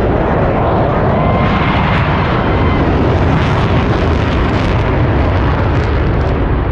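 Loud, steady engine noise from an aircraft flying in an airshow display.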